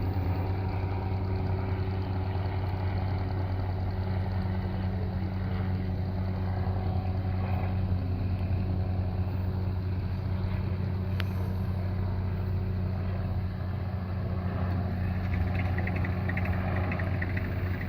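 An engine running steadily at one speed, a continuous drone that holds its pitch without rising or falling.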